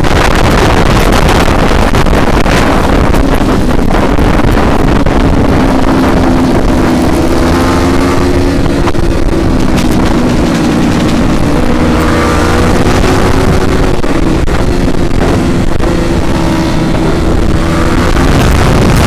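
Wind buffeting the microphone of a moving motorcycle over a Yamaha R15's single-cylinder engine, whose pitch rises and falls with the throttle.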